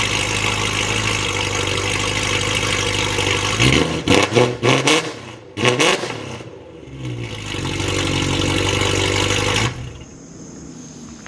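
Straight-piped BMW E92 M3's 4.0-litre V8 idling with no mufflers. About four seconds in it is blipped sharply several times, then it settles back to a steady idle before the sound cuts off abruptly near the end.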